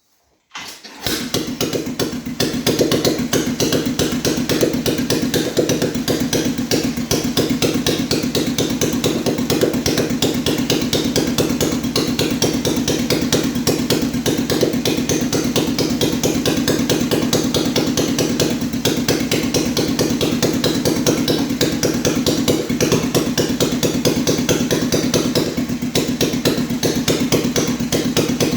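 The 1938 BMW R35's single-cylinder four-stroke engine starts about half a second in and then runs steadily with a fast, even beat of firing strokes. It is a test run of the restored engine to check it for oil leaks.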